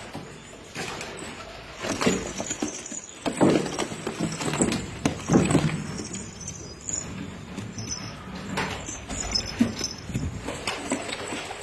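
Domestic pigeons cooing, with irregular clicks and clatter among the calls.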